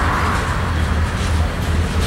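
Freight cars rolling across a steel truss bridge: a steady rumble with a few faint wheel clicks.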